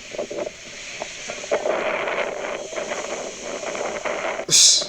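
Storm wind buffeting a phone microphone, a steady rush with scattered knocks, and one loud sharp crash near the end.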